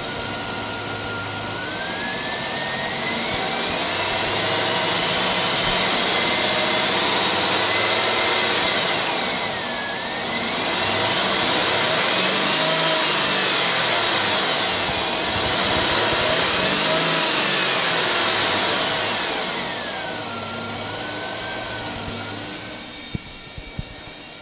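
2007 GMC Yukon's 5.3-litre V8 engine being revved up and held at high revs for several seconds, dipping briefly, revved and held again, then dropping back toward idle near the end.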